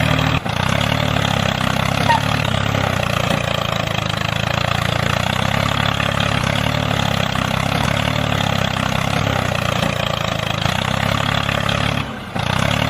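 Tractor engine running steadily under ploughing load. It briefly cuts out about half a second in and again near the end.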